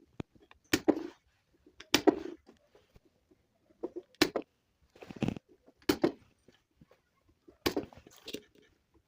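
Sharp clicks and knocks, about seven in nine seconds and irregularly spaced, from tool work while the old LA4440 amplifier IC is desoldered from the circuit board.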